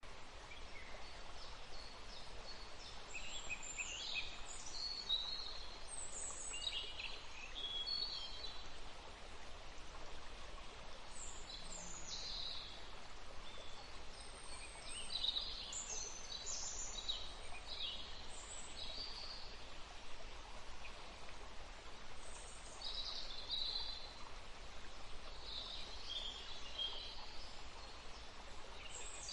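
Steady rush of a woodland stream flowing, with many small birds chirping and calling over it throughout.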